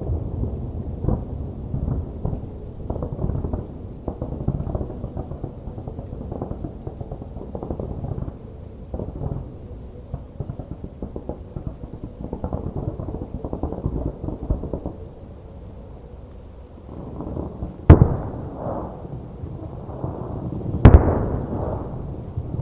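Aerial fireworks shells bursting: a dense, continuous run of low booms and crackling that thins out about sixteen seconds in, followed by two loud sharp bangs about three seconds apart near the end.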